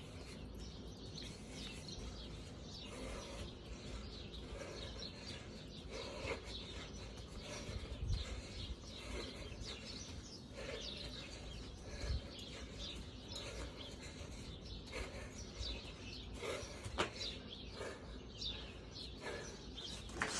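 Birds chirping on and off over a low steady background, with two dull thumps about eight and twelve seconds in and a sharp click near the end.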